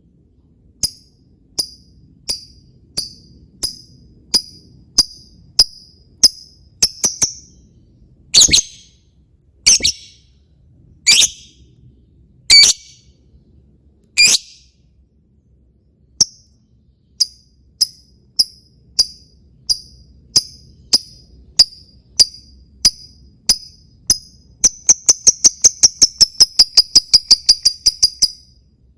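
Lovebird giving its ngetik call: short, sharp, high chirps spaced about a second apart, with a few louder clicking notes in the middle, breaking near the end into a fast run of several chirps a second.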